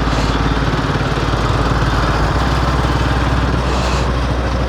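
Royal Enfield Himalayan 450's single-cylinder engine running at steady low revs while riding, with a steady rush of wind and road noise.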